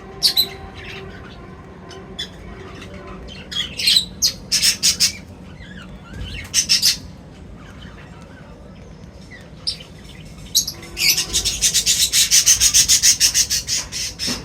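Birds chirping and calling in short scattered bursts, then a fast run of loud repeated chirps, several a second, over the last few seconds.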